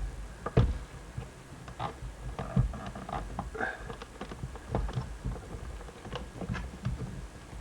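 Irregular clicks and knocks, a few with a short ringing tone, over a steady low hum.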